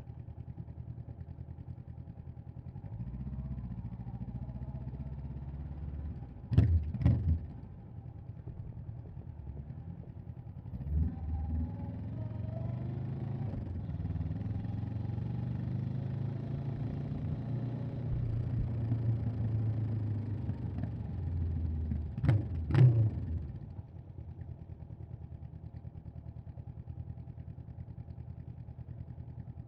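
Honda CB500X's 471 cc parallel-twin engine running steadily, then pulling harder through rising revs for most of the clip before easing back to a steady low hum near the end. Two pairs of sharp cracks stand out as the loudest sounds, one early on the pull and one as it eases off.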